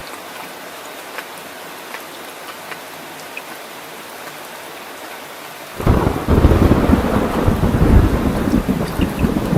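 Steady rain falling, with scattered drop ticks. About six seconds in, a loud, deep roll of thunder breaks in suddenly and keeps rumbling under the rain.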